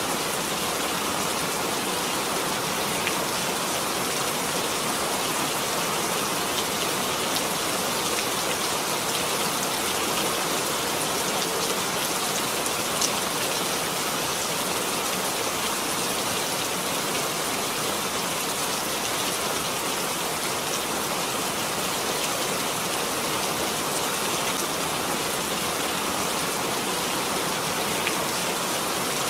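Steady, even rain falling, a constant hiss with faint patter of drops.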